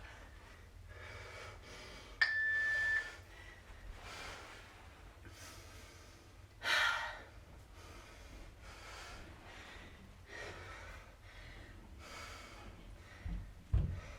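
Heavy, even breathing after a hard set of kettlebell work, with one louder breath about halfway through. A single steady beep, like an interval timer marking the end of a work period, sounds about two seconds in, and a couple of dull low thumps come near the end.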